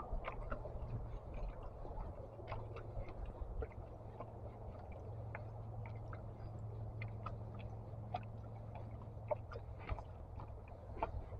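Footsteps on a park path picked up by an action camera's internal mic inside a waterproof case: irregular short clicks and crunches over a steady low rumble of wind and handling on the case.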